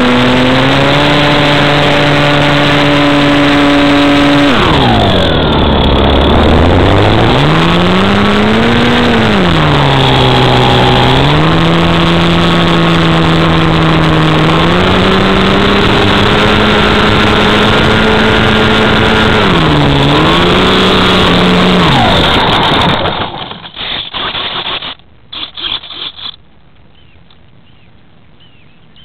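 RC model airplane's motor running loud with a buzzing tone that repeatedly falls and rises in pitch as the throttle changes. It stops near the end, leaving a few brief rustles and low background noise.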